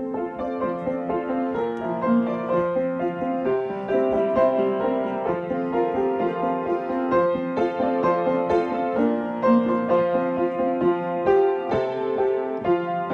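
Instrumental music: a piano or keyboard playing a gentle melody with chords, without singing.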